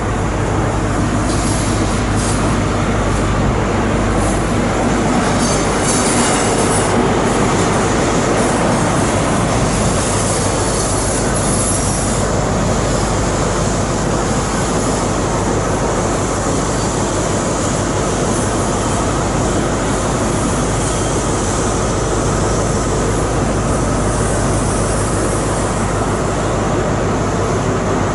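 A train running close by at a station platform, loud and steady with a low hum underneath. There is extra high, flickering squeal-like noise in roughly the first dozen seconds.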